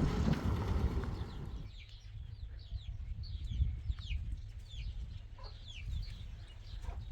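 Wind buffeting the microphone, cutting out after about a second and a half. Then many short, quick, falling high bird chirps, with a few lower calls among them.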